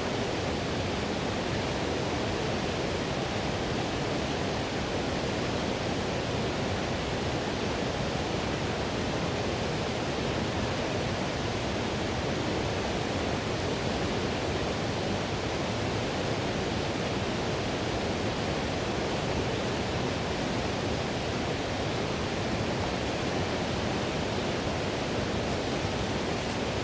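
Whitewater river rushing steadily: an even, unbroken hiss of fast water over rocks.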